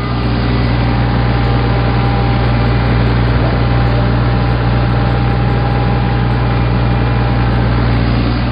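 Tractor diesel engine running steadily with a heavy low rumble.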